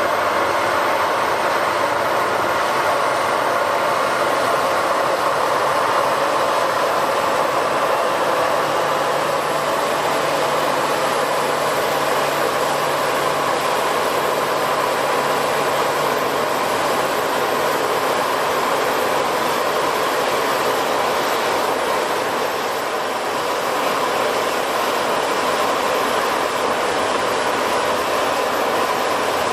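Airliner jet engines running, a steady loud rush of engine noise with a faint high whine.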